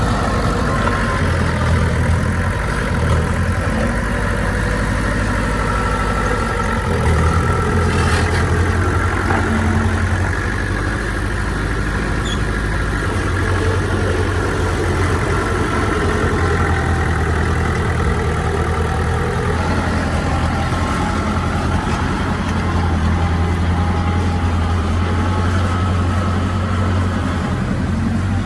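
Heavy diesel engine of earthmoving machinery running steadily with a low hum, its load swelling and easing a little as it works.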